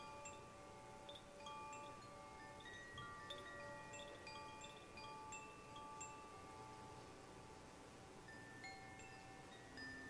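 Wind chimes ringing softly, many overlapping pure tones struck at irregular moments and left to ring.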